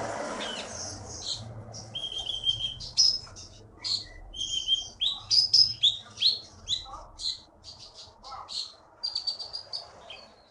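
A konin songbird singing a fast, varied song of short chirps and whistles, some sliding in pitch, the loudest notes about three and five to six seconds in.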